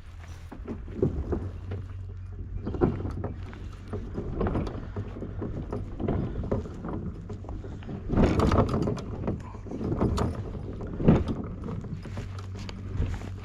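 Irregular knocks and clunks around a kayak, about one every one to two seconds and loudest near the end, over a steady low hum.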